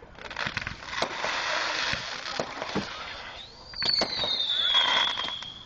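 Fireworks going off: a few seconds of crackling with several sharp bangs, then a shrill whistle that rises briefly and slowly falls in pitch, with another bang just after it starts.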